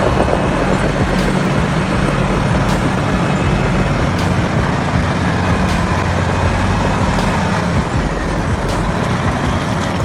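Heavy truck engine running loudly and steadily, with road and traffic noise.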